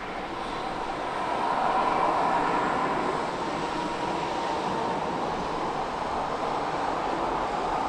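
Jet engines of a Boeing 737-800 (CFM56-7B turbofans) at takeoff power, a steady rushing noise that swells over the first two seconds and then holds.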